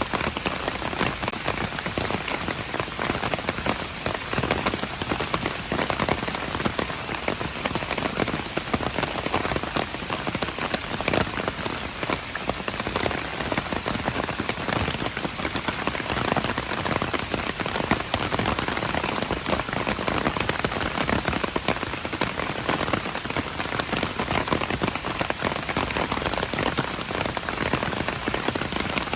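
Steady rain falling: an even hiss of rain with many individual drops ticking through it, unchanging in strength.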